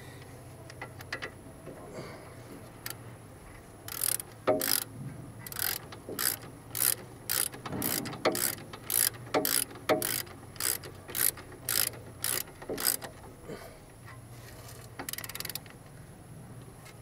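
Ratchet wrench clicking in quick back-and-forth strokes, about two a second, as a bolt on a car's front brake caliper is turned, ending with one longer rasp.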